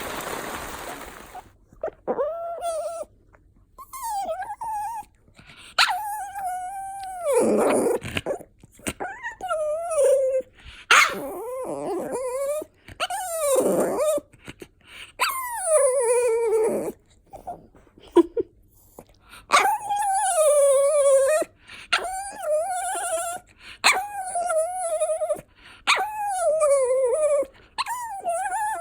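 Pomeranian dog whining and whimpering over and over, a string of high, wavering calls, some sliding down in pitch, with short pauses between them.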